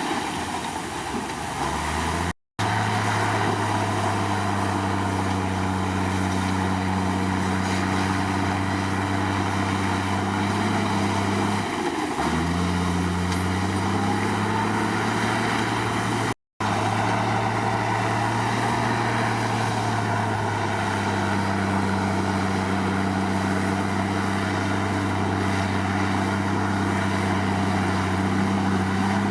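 Komatsu crawler bulldozer's diesel engine running steadily. About twelve seconds in, its pitch drops briefly and then climbs back. The sound cuts out completely for a split second twice.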